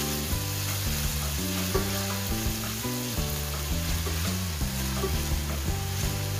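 Chopped onion, garlic and tomato sizzling as they sauté in a stainless steel pan, stirred with a spatula. A steady frying hiss plays over background music with a low, stepping bass line.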